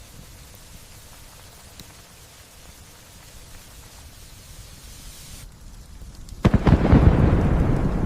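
Steady light rain, its hiss dropping away abruptly a little past halfway, then a sudden loud thunderclap with a deep rumble that rolls on and slowly fades.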